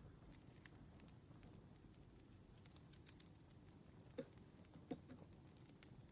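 Faint crackling of a burning wood fire: scattered small pops and ticks over a low hiss, with two louder sharp pops a little after four seconds and just before five seconds in.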